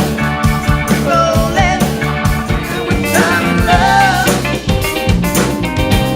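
A band playing an upbeat pop-rock cover: drums keep a steady beat under bass and guitar, with a wavering sung melody over the top.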